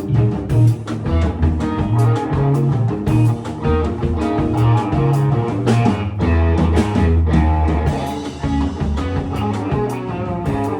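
Rock music: a baritone Danelectro electric guitar playing low notes over a band with steady drum hits.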